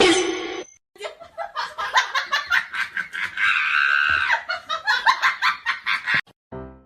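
A person laughing hard in a long run of rapid bursts, straining higher for a moment in the middle, then breaking off.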